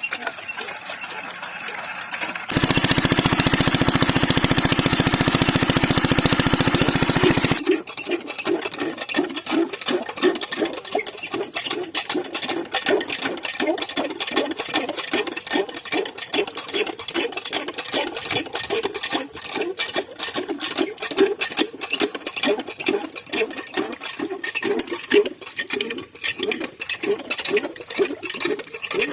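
Diesel water-pump engine: a loud, steady rattle for about five seconds, then the engine running with a slow, even chug of about three beats a second.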